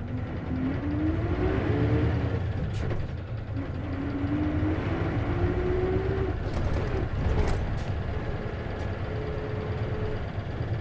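Isuzu KC-LV380N manual-transmission bus heard from inside while pulling away: a diesel engine rumble with a whine that rises in pitch twice as the bus accelerates through the gears, then holds steady near the end. The whine is the abnormal noise this bus is known for, a symptom the uploader has heard on other buses and suspects can occur with manual gearboxes. A few short clicks or rattles sound in the middle.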